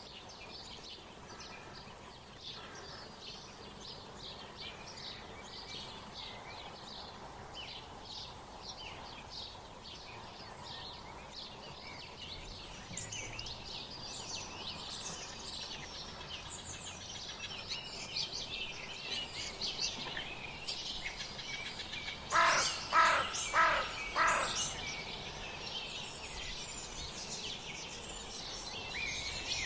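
Wild songbirds chirping and twittering in many quick high notes over a light outdoor background. About two-thirds of the way through, a larger bird gives four loud calls in quick succession.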